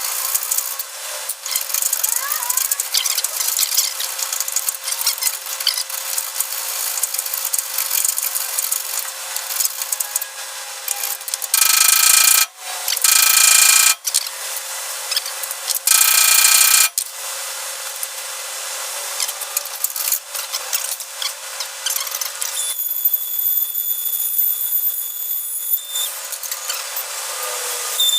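Hacksaw blade sawing through an old steel spring bushing sleeve, a rapid scratchy rasp of metal on metal. Three brief, louder squealing passes come about 12, 13.5 and 16.5 seconds in, and a steady high-pitched whine joins in over the last five seconds.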